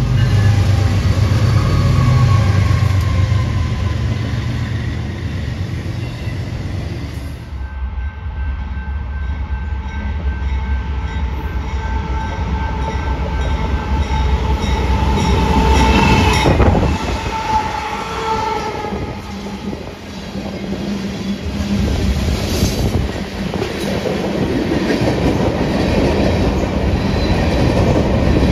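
BNSF freight trains passing close by: diesel locomotives and rolling freight cars rumbling and clattering on the rails. A steady high tone drops in pitch as the second train's locomotives go by, a little over halfway through.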